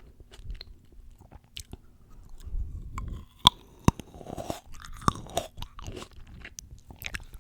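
Close-miked chewing of fresh fruit: moist crunching, with a few sharp clicks in the middle.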